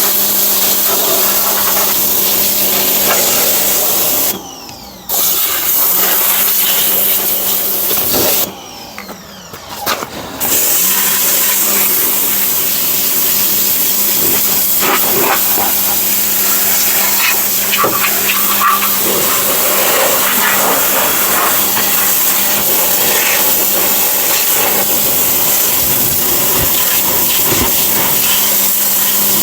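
Small pressure washer spraying: a steady loud hiss of the jet over the humming pump motor. The spray and motor stop briefly twice, about four seconds in and again for about two seconds near eight seconds, then run on steadily.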